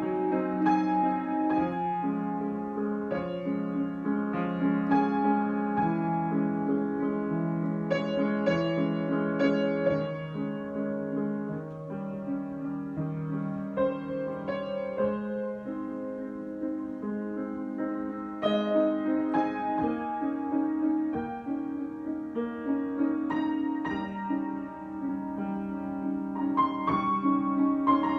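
Solo piano improvisation: slow, flowing chords and melody notes, each note struck and left to ring.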